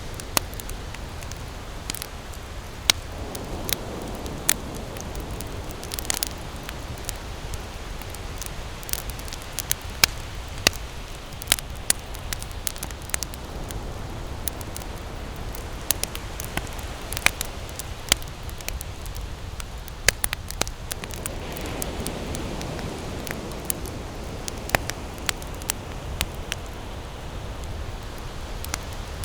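Wood campfire crackling, with irregular sharp snaps and pops over a steady low rush of burning.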